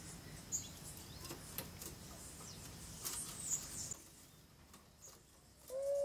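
A few faint, high bird chirps and light clicks over a low steady hum, which drops out about four seconds in; a soft low note starts just before the end.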